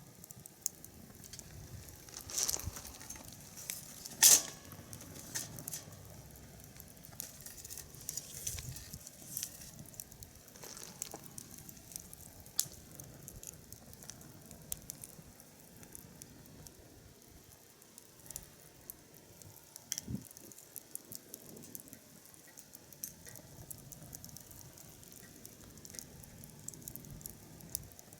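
Firewood burning in a fire pit, crackling with scattered sharp pops, two of them louder a couple of seconds and about four seconds in.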